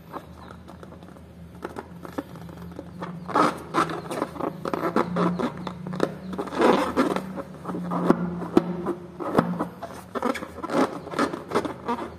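Fingers rubbing and squeezing a filled latex balloon, making irregular scratchy, crackling rubbing sounds. It is quiet for about the first three seconds, then comes a dense run of scrapes that eases off near the end.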